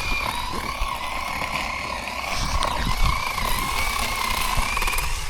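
Zhipu 48V cordless electric chainsaw running, its motor and chain giving a steady high whine that wavers slightly in pitch, with scattered low knocks.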